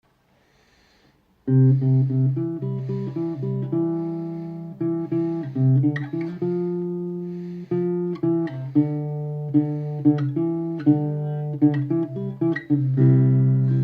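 Acoustic guitar playing the instrumental intro of a country song, picked notes and strummed chords that come in about a second and a half in after near silence.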